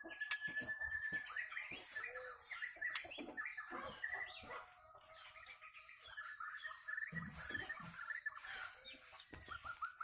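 Caged murai birds calling: quick chirps and short rising and falling notes, with one held whistle in the first second or so.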